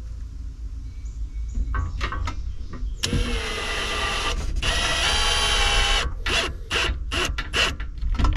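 Cordless drill running at a steady pitch, driving a screw into a shelf board in two runs with a short break, followed by several short knocks and clicks.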